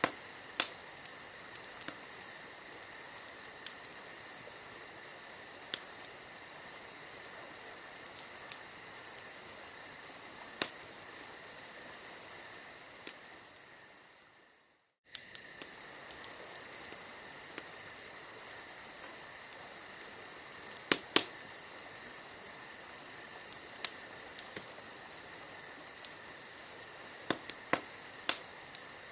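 Campfire crackling, with scattered sharp pops from the burning wood over a steady chirping of crickets. The sound fades out about halfway through and returns abruptly a second later.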